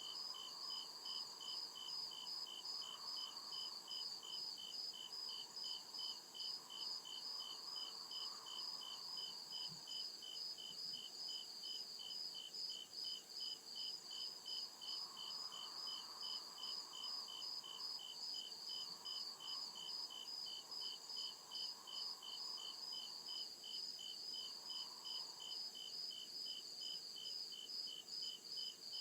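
Cricket chirping in a fast, steady, even rhythm of high pulses that never lets up.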